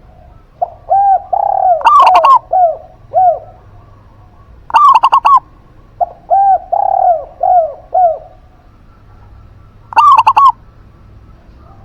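A zebra dove (perkutut) and a spotted dove (derkuku) calling in turn. The zebra dove gives three short, loud bursts of quick cooing notes. Between them the spotted dove gives two softer, lower cooing phrases of several drawn-out notes each.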